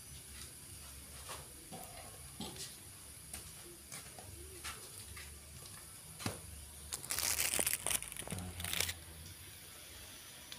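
Fried rice sizzling quietly in a wok on the stove: a steady faint hiss with scattered light clicks and taps. About seven seconds in, a louder rustling noise lasts for about two seconds.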